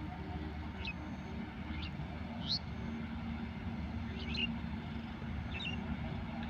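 A bird calling repeatedly: short high chirps, each dropping in pitch, about once a second, one louder than the rest about two and a half seconds in. Beneath them runs a steady low rumble.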